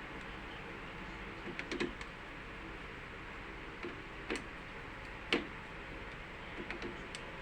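Scattered light clicks and taps from hand tools working the screw terminals of a breaker panel, over a steady low hum. There is a small cluster early, then single clicks, the loudest about five seconds in.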